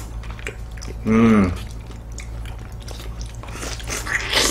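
People biting into and chewing soft, ripe fresh figs, with small wet mouth clicks. About a second in, one of the eaters gives a brief hum that falls in pitch.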